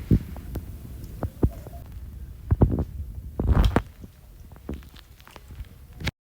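Low rumble with irregular soft thumps, typical of wind buffeting and handling on a phone microphone. The sound cuts off suddenly near the end.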